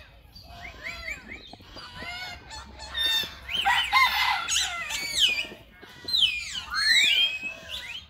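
Birds calling and chirping: many overlapping rising and falling whistled notes, busiest around the middle and again near the end.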